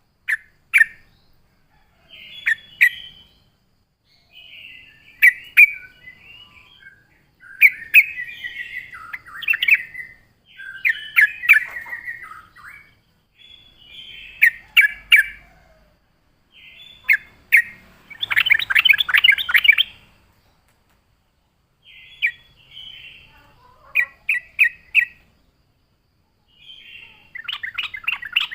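Yellow-vented bulbul (trucukan) singing energetically: short bubbly, chirping phrases repeated every one to three seconds, with a burst of fast chattering about two-thirds of the way through and again near the end.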